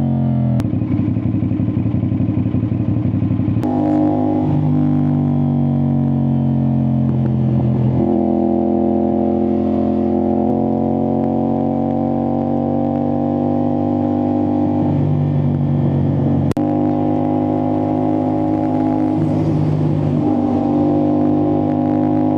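CFMoto 450SR-S parallel-twin engine through an Austin Racing aftermarket exhaust, pulling hard through the gears: the exhaust note climbs steadily in pitch and drops back at each of several upshifts.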